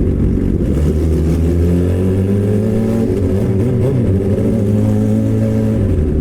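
Suzuki GSX-R600 K7 inline-four with a straight-piped M4 exhaust and no catalytic converter, pulling under way. Its engine note rises slowly for several seconds and drops just before the end.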